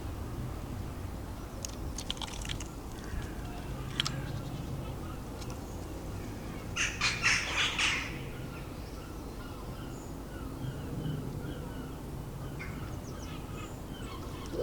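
Birds at a garden feeder: a few sharp taps, then a quick flurry of about half a dozen clattering strokes around seven seconds in, the loudest sound, with faint short chirps later on. A low steady rumble of city traffic runs underneath.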